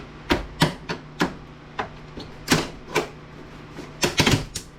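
About a dozen sharp, irregular clicks and knocks, with a quick cluster near the end. They come from the hard plastic case and parts of an APC battery backup unit being handled and pried during disassembly.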